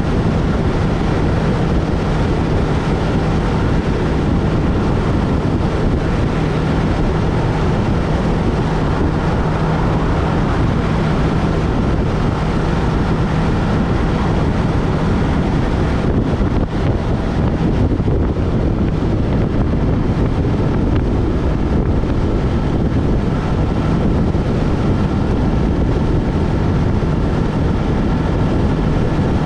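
Yamaha MT-03 motorcycle engine running at a steady cruise, its exhaust note steady, with wind rushing over the helmet-mounted action-camera microphone. The sound dips briefly about two-thirds of the way through.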